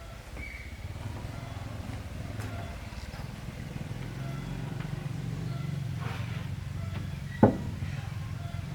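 A small engine running steadily, with one sharp knock about seven and a half seconds in.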